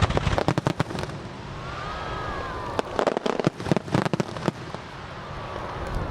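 Aerial fireworks bursting in two rapid clusters of sharp bangs and crackles, one in the first second and another from about three to four and a half seconds in.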